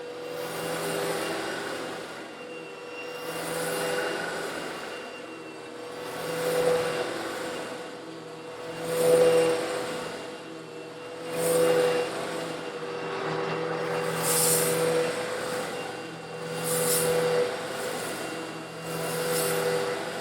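Eureka vacuum cleaner motor running steadily with a constant whine, swelling and fading about every two and a half seconds, with the gritty rattle of small coarse stone granules being sucked up, sharpest in the second half.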